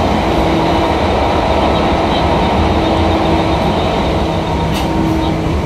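Tobu 9000-series electric train running through a subway tunnel, heard from inside the car: a steady, loud rumble of wheels and traction motors with a few faint steady hum tones.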